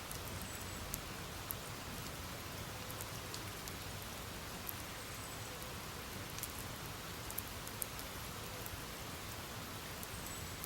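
Campfire burning: a steady hiss of the flames with scattered sharp crackles and pops from the burning wood.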